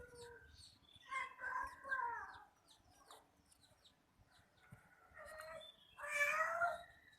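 Small birds chirping: a run of short, high, falling chirps. Two longer, louder wavering calls come in over them, about a second in and again near the end.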